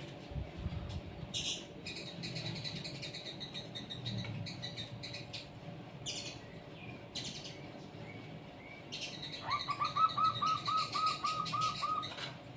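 Small birds chirping and tweeting in scattered short calls, then a quick run of about a dozen repeated, upturned notes near the end.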